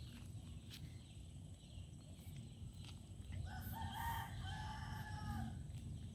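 A farm animal's call: one long pitched call of about two seconds, starting about three and a half seconds in, over a steady low rumble.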